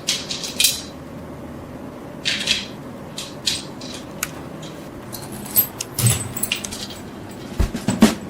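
Hand work on small metal parts: a string of short scrapes and light metallic clicks, spaced irregularly, over a faint steady low hum.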